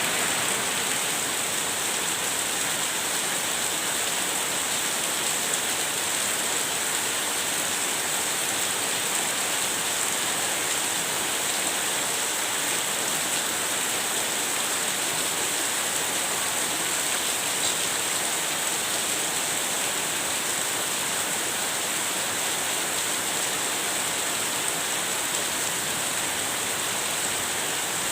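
Heavy rain from a rainstorm falling steadily: a dense, even hiss that does not let up.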